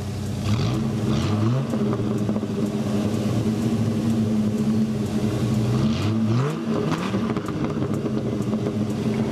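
Dodge Ram SRT-10's 8.3-litre V10 engine under way, its pitch rising quickly twice in the first couple of seconds, then holding steady, then rising again about six seconds in.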